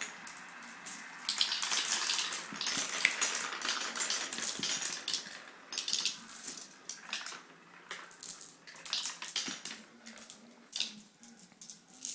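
Marbles rolling and clattering down a wooden Quadrilla marble run: a dense stream of rapid clicks and rattles that thins out near the end.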